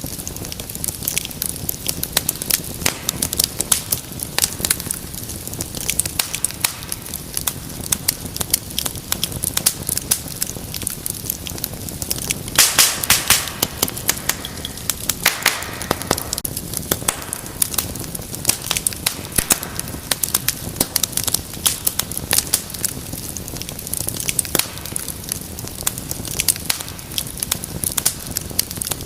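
Wood fire crackling with frequent sharp pops and snaps over a low hiss, with a denser flurry of pops about halfway through.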